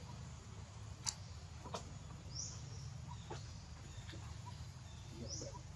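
A bird's short, high chirp, twice about three seconds apart, over a steady low background rumble, with a few faint clicks in between.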